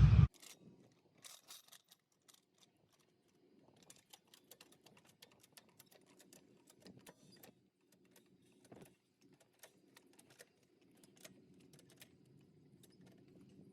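Faint, irregular small clicks and ticks, scattered and never settling into a rhythm, over an otherwise quiet background.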